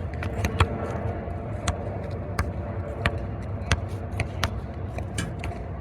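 Irregular sharp knocks or taps, two or three a second, over a steady low rumble.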